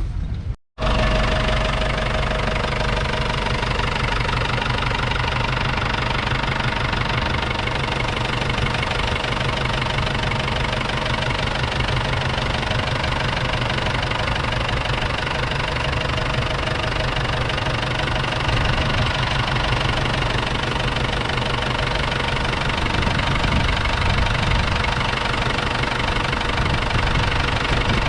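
1988 Ford 7610 tractor's 4.4-litre four-cylinder diesel engine running steadily with a diesel clatter. It breaks off for a moment under a second in, then runs on evenly.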